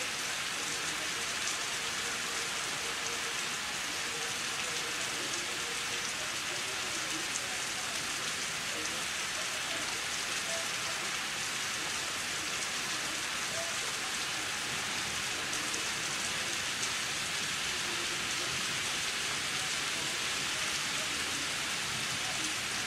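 Steady rain from a severe thunderstorm falling on surfaces, an even hiss that holds at the same level throughout.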